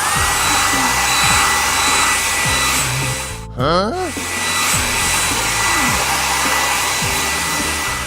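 A loud, steady rushing hiss with a faint steady whistle tone, over background music. About halfway through it breaks off briefly for a quick rising swoop, then carries on.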